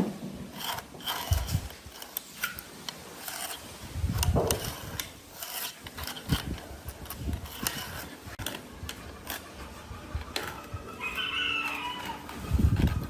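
Irregular knocks and scraping of hand work on wood, with heavier thumps about four seconds in and near the end. A short pitched call sounds about eleven seconds in.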